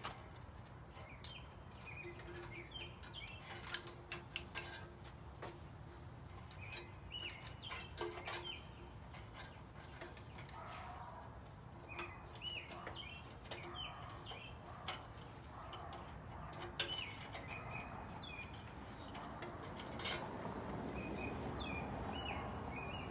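Small birds chirping over and over in the background. Scattered sharp clicks and knocks come from hands working at the tractor's engine parts, and fleece fabric rustles close against the microphone, rising toward the end.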